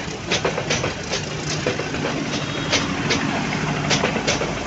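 Passenger coaches and a diesel generator power car of a metre-gauge train rolling slowly past, the wheels clicking over the rail joints a few times a second. Under the clicks the power car's generator engine runs with a steady drone that grows louder from about a second in as the car draws level.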